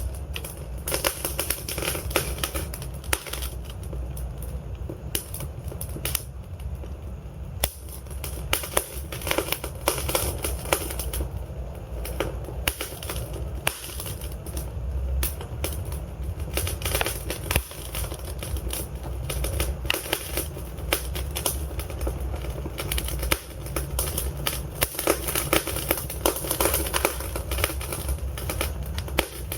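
Wood fire in a fireplace crackling and popping, with dense irregular snaps over a steady low rumble of burning.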